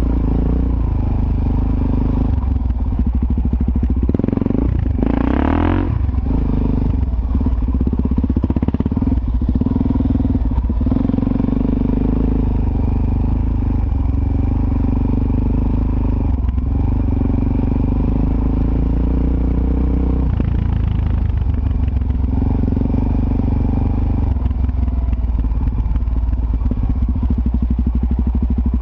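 Suzuki DR-Z400S's single-cylinder four-stroke engine running under way on a dirt trail, its revs rising and falling with the throttle, with a quick rising rev about five seconds in.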